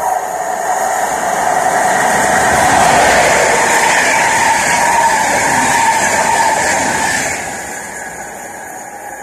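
Passenger train passing through the station on the near track at speed: the rolling noise of wheels and coaches builds to a peak about three seconds in, then fades away as the train moves off.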